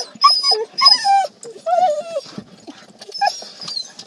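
Siberian huskies whining and yipping in excitement: a quick string of short, high, pitch-bending cries with brief gaps between them.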